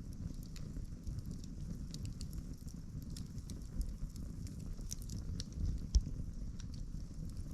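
Campfire burning, with scattered crackles and sharp pops of wood over a steady low rumble. A single louder low thump comes about six seconds in.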